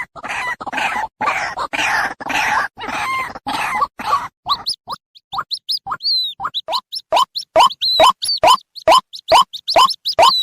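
White-breasted waterhen chicks calling. A rapid series of harsh, scratchy calls gives way, about four seconds in, to short, sharp notes repeated about three times a second that get louder toward the end.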